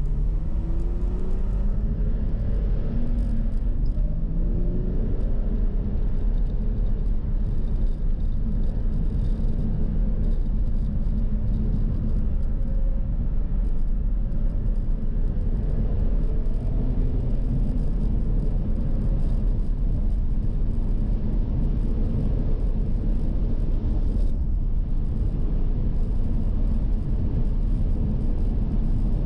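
Porsche Cayman R's 3.4-litre flat-six accelerating, its note rising twice in the first few seconds as it pulls through the gears, then running steadily under a heavy low rumble of road noise, heard from inside the cabin.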